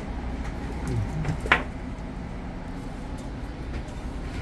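Steady low hum inside a railroad passenger coach, with one sharp knock about one and a half seconds in.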